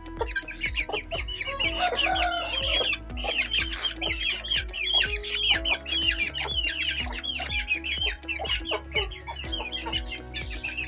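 Chickens clucking amid a dense chorus of quick, high, falling chirps, over background music with a steady beat.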